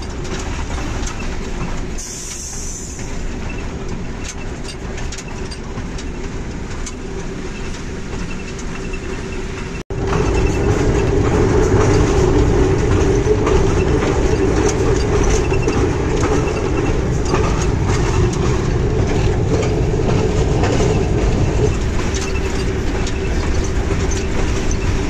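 Passenger train running along the track: the steady rumble of the Hitachi HBU-20 diesel-electric locomotive, with wheels clicking over rail joints. About ten seconds in the sound cuts off abruptly and comes back louder.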